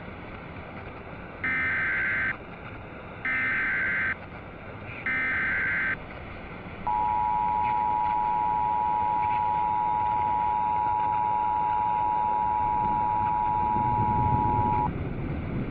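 Emergency Alert System broadcast signal: three short bursts of warbling SAME digital header data, then the two-tone attention signal, two steady pitches just under 1 kHz sounding together for about eight seconds before cutting off. A steady background hiss runs underneath.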